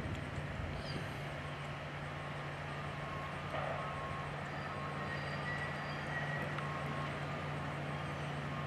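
A truck engine running steadily, with a backup alarm beeping repeatedly at an even pace.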